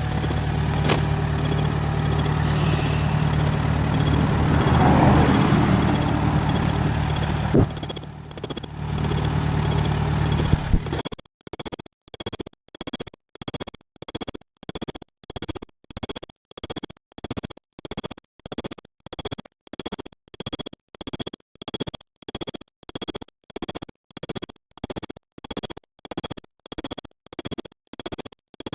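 Old Ford tractor engine running steadily for about the first ten seconds. It then gives way abruptly to music with an even pulsing beat, about two beats a second.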